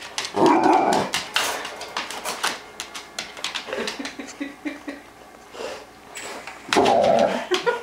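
A Labrador retriever scuffling with a small R/C helicopter: a run of sharp clicks and knocks, with short louder bursts about half a second in and again near the end.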